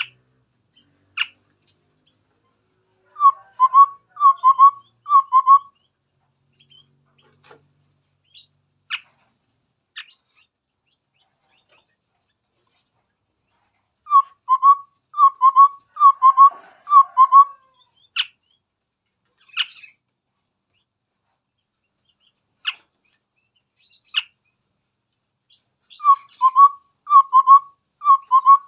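Chestnut-rumped babbler singing: three runs of four or five low, evenly spaced notes, about two a second, with single sharp short calls scattered in the pauses between runs.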